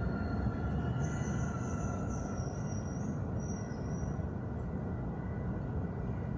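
Subway train in the station, a steady rumble with a high metallic squeal of wheels on the rails from about a second in until about four and a half seconds.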